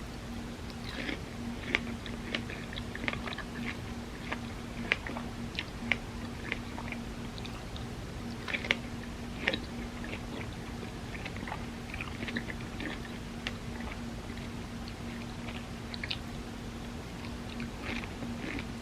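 Close-miked chewing and biting of a soft, creamy crepe cake: irregular wet mouth smacks and small clicks, over a steady low hum.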